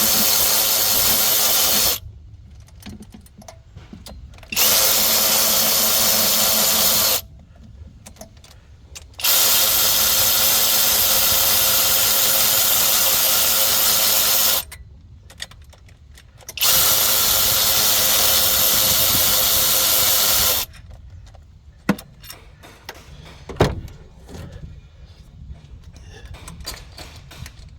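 A power tool with a drill-type motor runs in four bursts of a few seconds each, with short pauses between them. About 21 seconds in it stops, and a few light clicks and one sharp knock follow.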